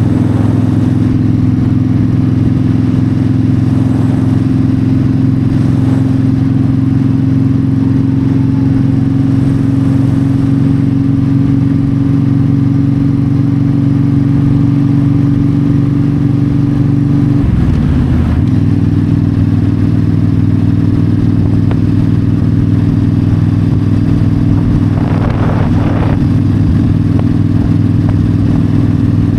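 Yamaha V-Star 1300's V-twin engine running steadily at highway cruising speed, heard from the saddle with road and wind noise. A little past halfway the engine note dips briefly and then settles again.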